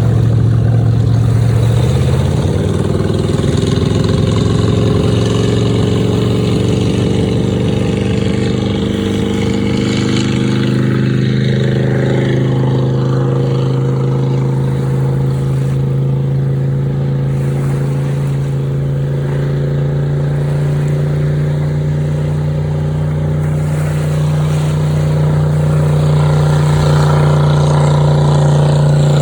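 Motorboat engine running under way. Its pitch rises about two seconds in and then holds steady.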